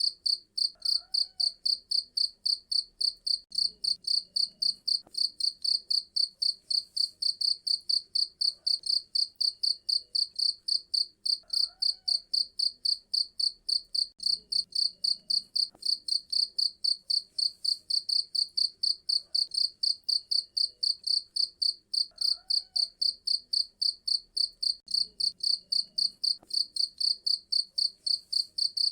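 Cricket chirping without a break, a high, even pulse at about four chirps a second.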